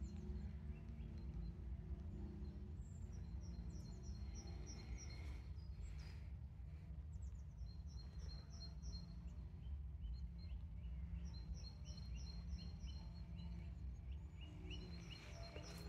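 Songbird singing: short runs of quick, high, evenly repeated chirps, several phrases one after another, over a steady low outdoor rumble.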